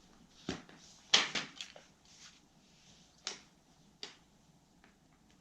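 A few light knocks and clicks with some rustling as small objects are handled and set down on a work surface: a cluster about a second in, then two single knocks.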